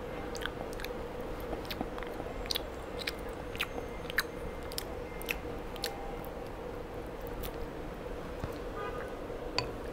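Close-up chewing and biting as a child eats chicken wings, with irregular small sharp clicks every second or so. A steady low hum runs underneath.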